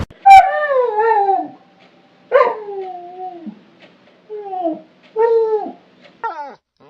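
A dog whining and crying in about five drawn-out cries that fall in pitch, the first two long and the later ones shorter.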